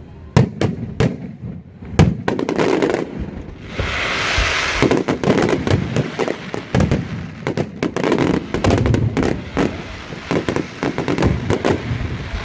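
Fireworks going off in quick succession: many sharp bangs, with a stretch of dense hissing crackle about four seconds in.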